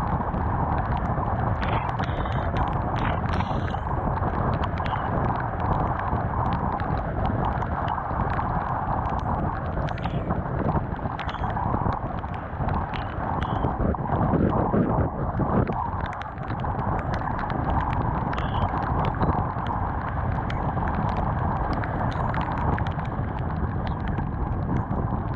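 Honda CBR 250R's single-cylinder engine running at speed under heavy wind and rain noise on a helmet- or bike-mounted action camera, with many short sharp ticks through it. There is a louder low rush about halfway through.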